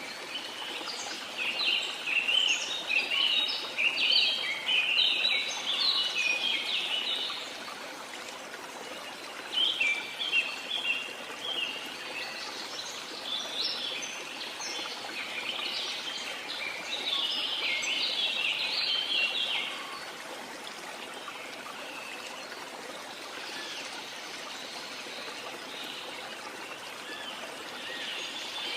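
Rainforest ambience: a steady rush of falling water under bursts of chirping bird calls, busiest in the first seven seconds and again from about thirteen to twenty seconds in.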